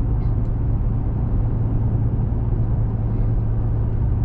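Steady engine and road rumble inside a small pickup truck's cab, cruising at about 37 mph.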